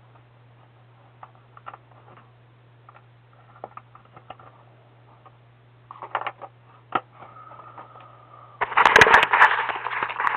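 Faint scattered clicks and taps over a steady low electrical hum. Near the end comes a loud burst of crackling, rustling noise mixed with sharp clicks.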